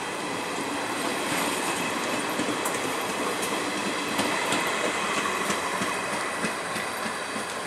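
Coaches of an Indian Railways express train rolling past, the wheels clicking over the rail joints. The noise eases a little near the end as the last coach goes by.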